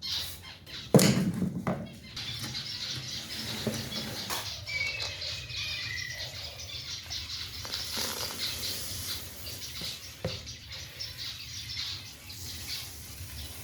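Many small cage birds chirping continuously in an aviary. There is a loud sharp knock about a second in and a few fainter knocks later.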